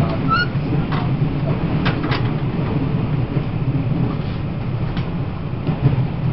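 Inside a Taiwan Railways E1000 push-pull Tze-Chiang express coach while the train runs: a steady low rumble from wheels on track, with scattered sharp clicks. A short high tone sounds just after the start.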